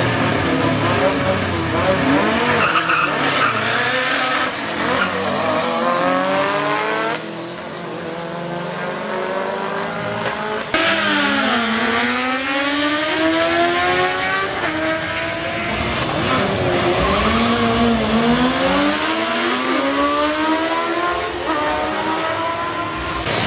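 Race car engines accelerating hard, the pitch climbing steeply, dropping briefly at each gear change and climbing again, across several abruptly cut passes.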